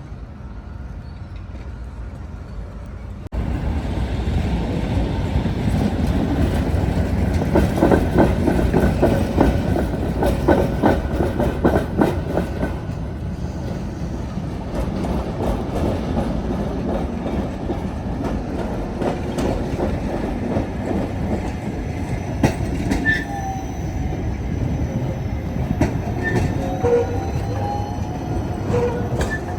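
Tatra tram running past, its steel wheels rumbling and clattering over rail joints. The sound jumps louder about three seconds in. Thin squealing tones come in near the end.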